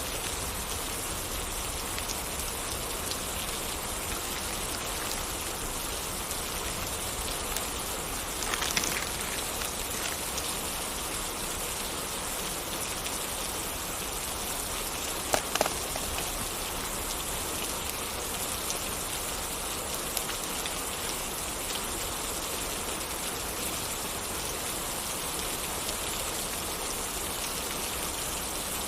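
Steady rain falling, an even hiss. Two brief sharp pops stand out, about nine and fifteen seconds in.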